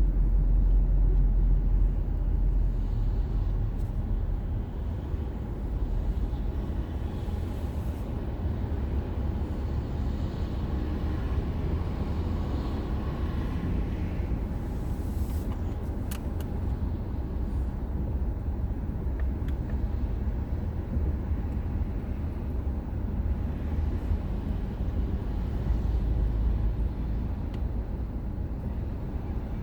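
A car driving along a road: steady low rumble of engine and tyre noise, heard from inside the car. It is louder in the first couple of seconds and swells again briefly near the end.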